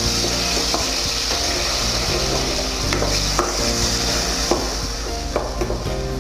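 Chicken pieces sizzling in oil with a little water in a frying pan, while a spatula scrapes and clicks against the pan as they are stirred.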